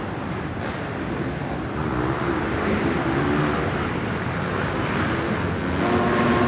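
Several motocross bikes racing, their engines revving and rising and falling in pitch as they go around the track.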